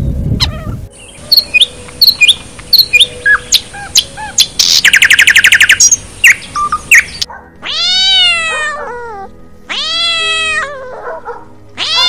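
A songbird's sharp chirps and a fast trill, then, about seven seconds in, a domestic cat meowing: two long, drawn-out meows, with a third starting at the end.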